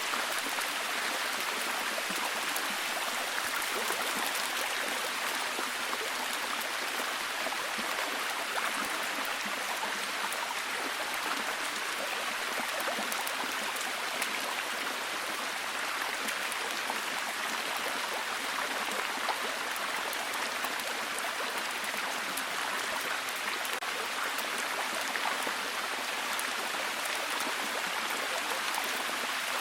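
Steady heavy rainfall: an even hiss of rain with a constant patter of individual drops.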